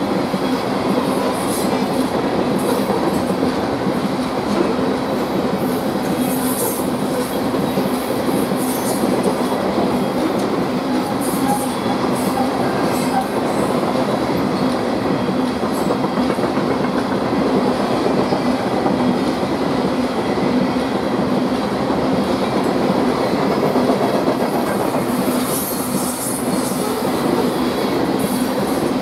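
Coal gondolas of a loaded coal train rolling past: a steady rumble and clatter of steel wheels over the rails, with a few brief high-pitched wheel squeals, the longest near the end.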